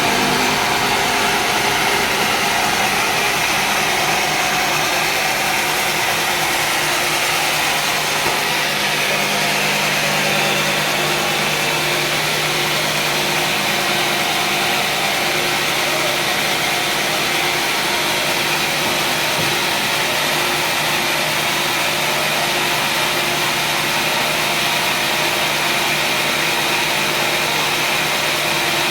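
Sawmill machinery running steadily: an even mechanical drone with a constant low hum.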